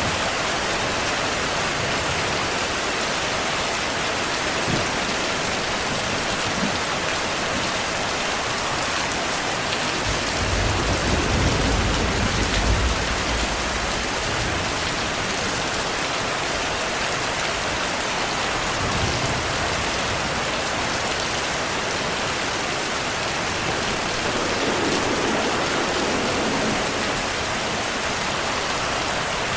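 Steady rainfall, with a low rumble of thunder swelling about ten seconds in and lasting a few seconds, and fainter rumbles later.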